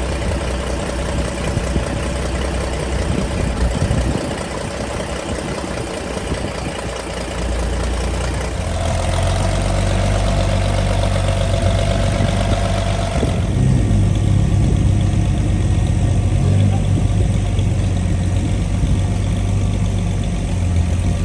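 International tractor engine running just after a cold start. The engine note steps up and gets louder about eight seconds in, and changes again about five seconds later.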